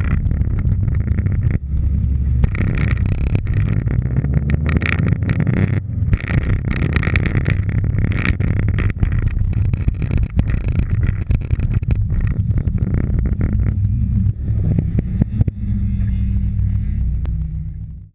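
Subaru Impreza WRX STI's turbocharged flat-four engine running hard under load on a snow rally course, heard from a camera at the rear of the car, with many sharp clicks and pops over it. The sound fades out at the very end.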